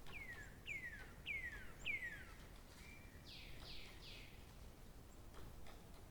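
A bird singing: a run of about five clear whistled notes, each falling in pitch, then a short steady note followed by three quick, rougher falling notes. Faint background noise underneath.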